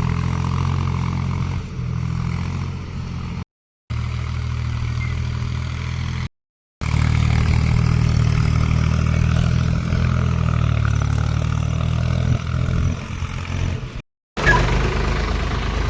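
Tractor diesel engine running steadily with a deep, even hum. The sound drops out completely three times for a moment, cut off abruptly each time.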